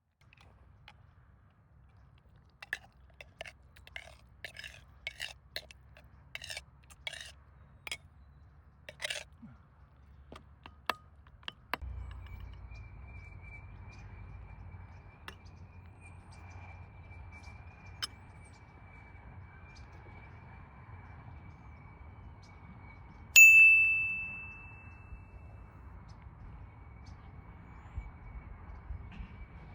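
A run of small clicks and clinks over the first ten seconds, then a single loud ringing clink of metal or glass about 23 seconds in that dies away over a couple of seconds. From about 12 seconds on, a steady high insect trill like crickets sounds in the background.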